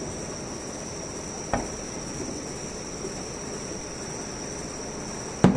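Two fireworks shell bursts: a lighter bang about a second and a half in and a louder one near the end, each with a short rumbling tail. A steady high trill of insects runs underneath.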